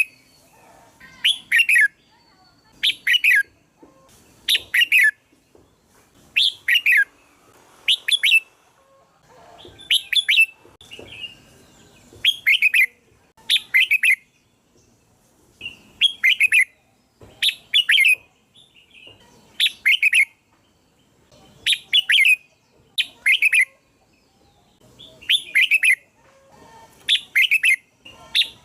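Red-whiskered bulbul song: short, loud warbling phrases of a few quick notes, repeated regularly every second or two, used as a call to draw in other bulbuls.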